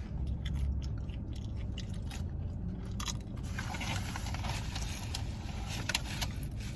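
Chewing and crunching of food close to the microphone, with scattered clicks and light scrapes, over a low steady rumble.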